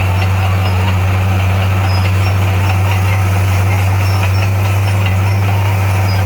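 Bulldozer's diesel engine running steadily with a deep, even hum and no change in pitch.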